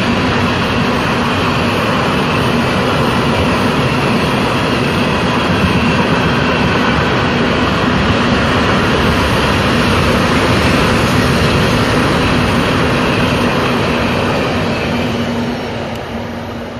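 Train passing close by: a loud, steady rumble with a faint held tone in it, fading over the last couple of seconds as the end of the train goes by.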